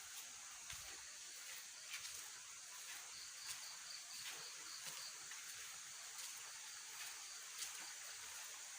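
Faint night-time insect chorus: a steady high-pitched hum of insects, with a cricket chirping at about three chirps a second, pausing and resuming, and a few faint clicks.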